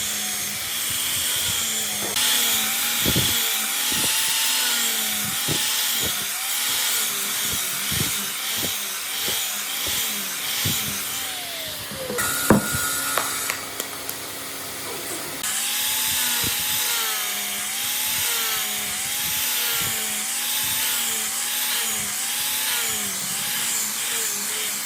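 Power tool worked against wood in repeated back-and-forth strokes, its motor pitch rising and falling with each stroke, roughly three strokes every two seconds. The rhythm stops for a few seconds around the middle, with a single sharp knock, then picks up again.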